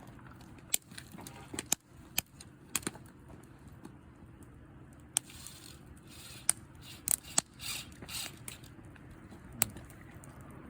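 Campfire of atebi (Hinoki asunaro) stick firewood crackling, with sharp pops at irregular intervals and a soft hiss about halfway through.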